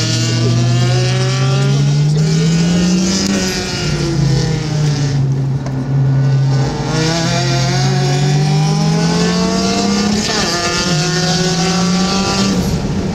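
Car engine heard from inside the cabin under hard track driving, its pitch climbing as it revs up and dropping sharply at gear changes, about a third of the way in and again near the end, with a brief lift off the throttle in the middle.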